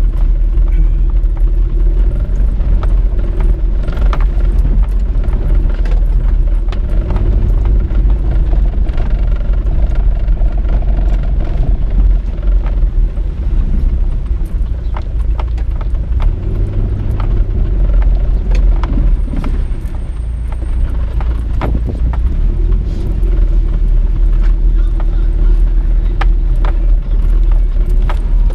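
Vehicle travelling along a road: a loud, steady low rumble with a wavering engine drone and scattered small knocks.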